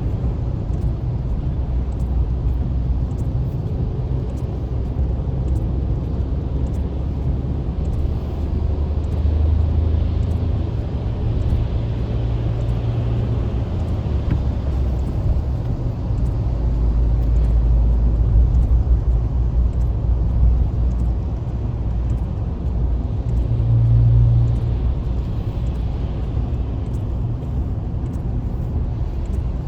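Road noise from a car driving on a highway: a steady low rumble of engine and tyres, swelling slightly now and then.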